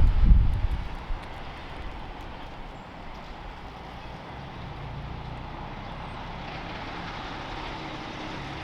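Heavy truck going by: a loud low rumble in the first second that drops to a steady, quieter engine and road hum.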